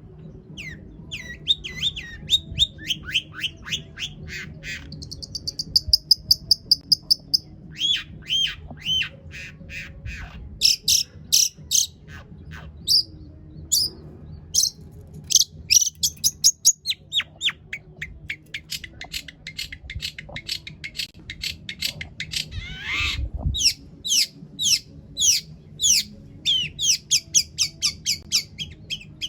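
Long-tailed shrike (cendet) singing a long, varied song packed with mimicked calls: fast runs of sharp repeated notes and trills that switch to a new phrase every few seconds, with one loud swooping call about three-quarters through. A low steady hum runs underneath.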